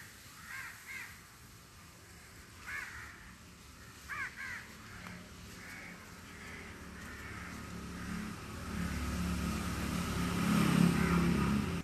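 A few short bird calls, some in pairs, in the first half. Then a low engine rumble builds over the second half and is loudest near the end, as a vehicle comes closer.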